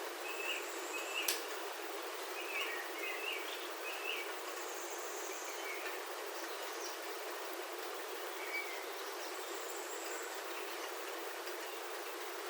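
Steady rain on a roof heard from inside, with birds outside giving short chirps, several in the first few seconds and one more later. A single sharp tick comes about a second in.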